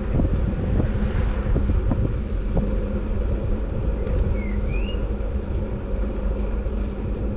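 Wind rumbling on the microphone during a ride, over a steady low hum from the moving vehicle, with a few light clicks.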